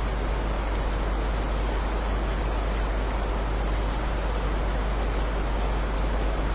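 Heavy rain falling steadily: an even wash of noise with a strong low rumble and no single drops standing out.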